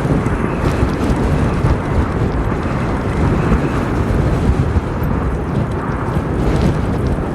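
Steady, loud wind rumble buffeting the microphone on a motorbike being ridden along a forest track, with the bike's engine running underneath.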